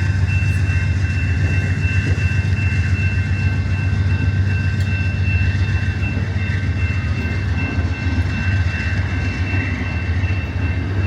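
Amtrak Borealis diesel-hauled passenger train pulling out of the station: a steady low engine drone with a constant high-pitched whine over it.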